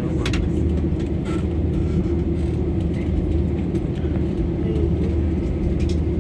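Steady low rumble and hum of an Airbus A320 as heard inside its passenger cabin, with a few faint light clicks.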